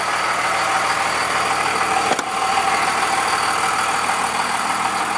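The Cummins turbo diesel engine of a 1998 Dodge 3500 dually idling steadily, with one brief click about two seconds in.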